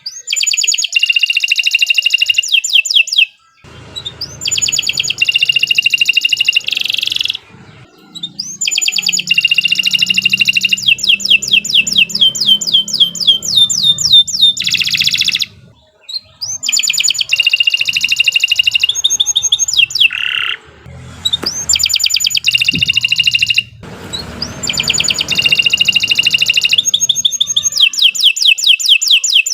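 Domestic canary singing long, loud song phrases of fast trills and rolls, with short pauses between phrases. This is the continuous singing that keepers use as tutor song.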